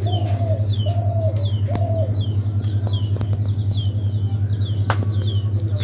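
Birds calling: a run of short, high, falling chirps throughout and a few lower arched calls in the first two seconds, over a steady low hum, with a single sharp click about five seconds in.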